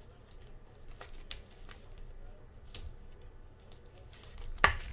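Trading cards and their packaging being handled: faint, scattered ticks and light rustling, with one sharper click near the end.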